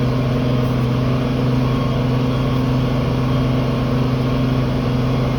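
Farm tractor engine running at a steady pitch under load while pulling a cultivator in the field.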